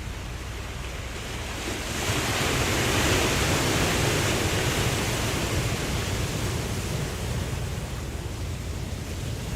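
Ocean surf: a wave swells and breaks about two seconds in, then slowly washes out, over a steady low rumble of the sea.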